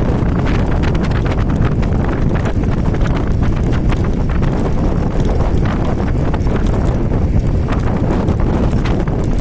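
Wind buffeting the microphone during a fast electric scooter ride, a heavy steady rumble, with a rapid irregular clatter of small knocks from the scooter running over the road surface.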